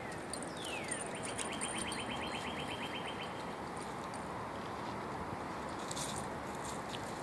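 Small songbird calling over a steady outdoor background hiss: two short falling whistles, then a rapid trill of about ten notes a second that lasts some two seconds.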